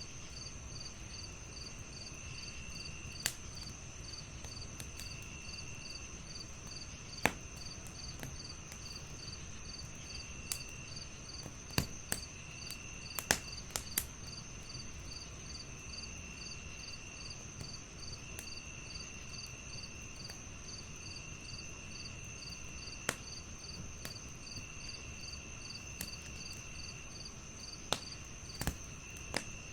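Crackling fireplace giving sharp, irregular pops every second or few, over a chorus of crickets: one steady high trill, one chirping about twice a second, and another trilling in stretches of a second or two.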